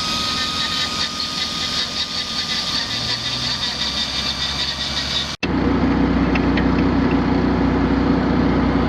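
A steady high whine over a hiss, cut off abruptly about five seconds in, followed by a heavy engine idling steadily.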